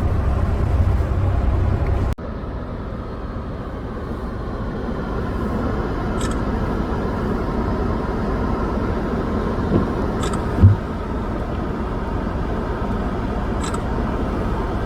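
Steady road and engine noise heard inside a moving car. The noise drops suddenly about two seconds in, and a short low thump comes about ten and a half seconds in.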